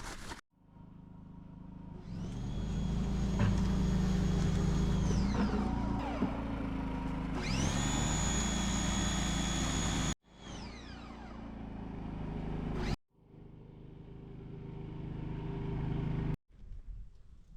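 A machine running with a steady low hum and a high whine that rises, holds and then falls away, twice over. The sound is broken by several abrupt cuts.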